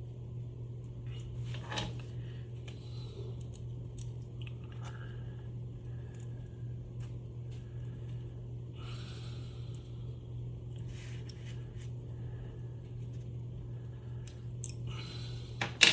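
Hand work on small metal motor parts with a screwdriver while a screw is started: scattered faint clicks and scrapes over a steady low hum, with a sharper click near the end.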